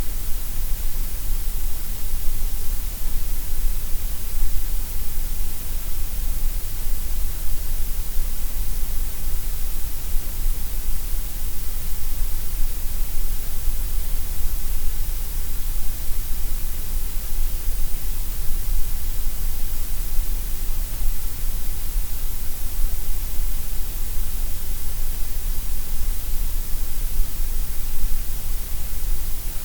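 Steady gray noise: a constant, even hiss with a strong low rumble and bright highs, the middle range a little softer, unchanging throughout.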